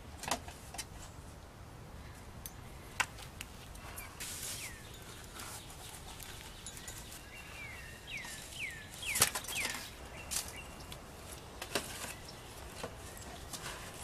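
Wild bird calls: a series of short whistled notes that each slide down in pitch, one about four seconds in and a cluster of four or five between eight and ten seconds. Scattered sharp clicks and knocks come from handling; the loudest is about nine seconds in.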